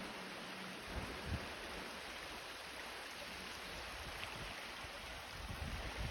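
Steady rushing of a cascading waterfall, with a few brief low thumps about a second in and again near the end.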